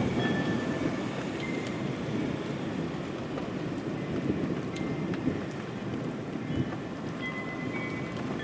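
Steady rain pattering on a window, with a low rumble of distant thunder that is strongest at the start and slowly eases off.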